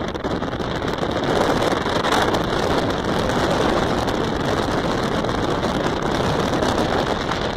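Wind rushing over the microphone in a steady, loud rush.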